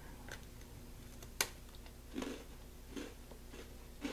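A hard-baked Japanese peanut cookie is bitten, with a sharp crack about a second and a half in. Slow crunchy chewing follows, about once a second.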